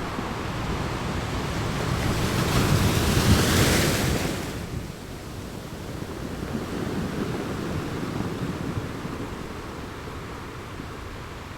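Ocean waves breaking on the shore: one wave builds to a loud crash about three seconds in and washes away, followed by a smaller surge.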